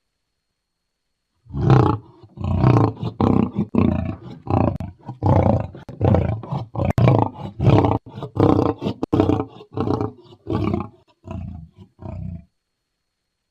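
Lion roaring: a long series of deep roars at about two a second, starting about a second and a half in and growing fainter and more spaced out before stopping near the end.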